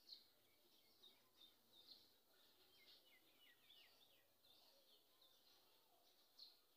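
Faint birds chirping: many short, high calls scattered throughout, with a few quick downward-gliding notes about three to four seconds in, over quiet background noise.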